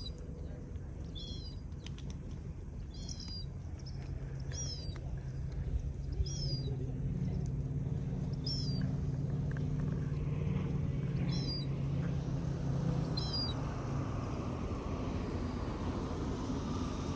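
A small bird chirps repeatedly, short high call notes roughly every one and a half to two seconds. A low engine hum, such as a passing motor, swells from a few seconds in and fades out near the end.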